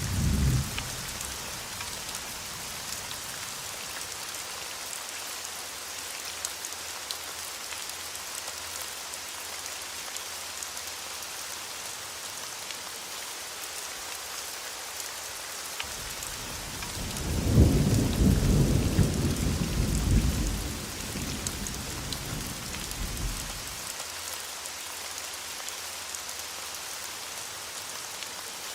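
Thunderstorm: steady rain hissing throughout, with a low rumble of thunder that builds a little past halfway, holds for a few seconds and rolls away. The tail of an earlier rumble dies out right at the start.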